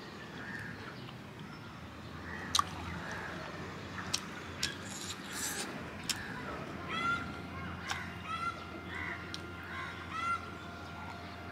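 Birds calling outdoors in a run of short, arching calls that start about seven seconds in and repeat to the end. Scattered sharp clicks come earlier; the loudest is a single click about two and a half seconds in.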